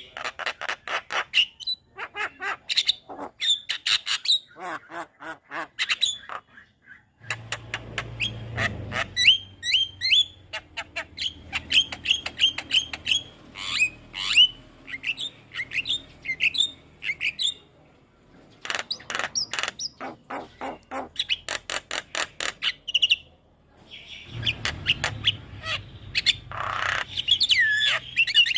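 Javan myna singing: fast, dry rattling chatter of clicks mixed with short whistled notes that rise and fall, in bursts broken by brief pauses.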